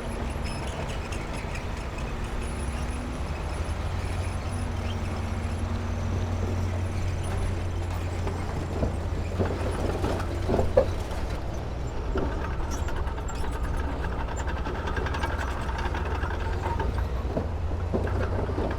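Diesel engine of heavy earthmoving equipment running steadily with a deep, low sound, with a few sharp knocks and clanks about halfway through.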